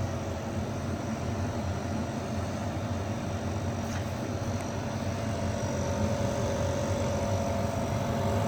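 EBERG TEXO 3.5 kW portable air conditioner (non-inverter) running in cooling mode on its lowest fan speed: a steady, loud hum from its compressor and fan, with a constant droning tone. The noise stays the same despite the airflow being turned down to minimum.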